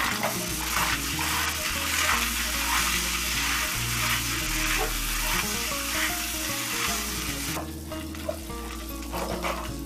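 Beef mince sizzling as it fries in oil in a non-stick pan, with a wooden spoon scraping and turning it in quick strokes; the sizzle drops away about three-quarters of the way through.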